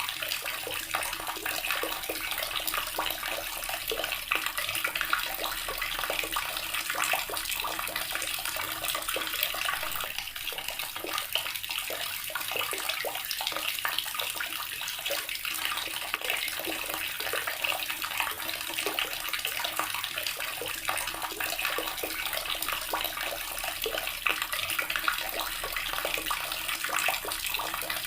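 Water tap running steadily, its stream splashing continuously into a basin.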